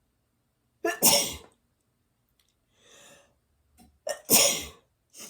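A woman sneezing twice, about a second in and again about four seconds in, with a faint breath drawn in between.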